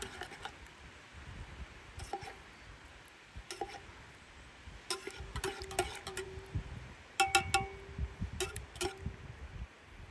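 Camp cookware clinking: a series of light knocks, each leaving a short ringing tone, with the loudest quick cluster about seven seconds in.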